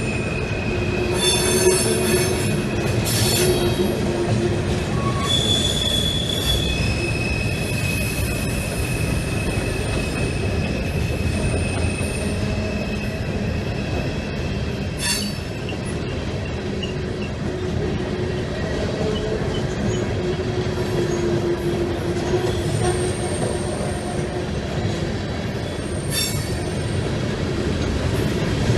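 Freight train rolling past: a steady rumble of wheels and cars, with high, thin wheel-flange squeals coming and going at several pitches, and a few sharp clicks.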